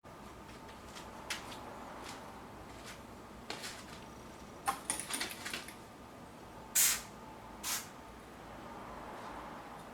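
Scattered small clicks and knocks of hands handling objects, with a quick cluster of clicks about halfway and two short, louder rushing sounds soon after, over a faint steady hum.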